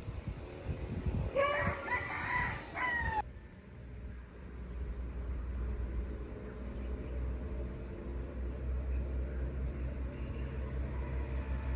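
A rooster crows once, a bending call about two seconds long that ends abruptly. After that there is a steady low hum with faint, high chirps of small birds.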